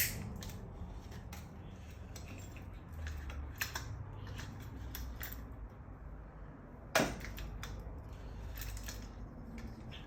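Metal hand tools and parts clicking and clinking during work on a motorcycle, with two sharp knocks, one at the start and one about seven seconds in.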